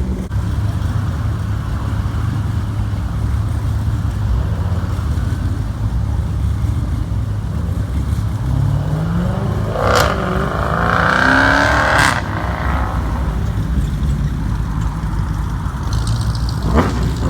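A car engine idling with a deep, steady rumble, revved up once about nine seconds in, its pitch climbing, followed by a loud two-second rush of noise.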